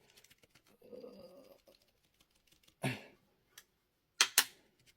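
Sharp knocks and clicks from working at a jammed e-scooter rear mudguard: a muffled scrape about a second in, a knock near the middle, and the loudest two clicks in quick succession near the end.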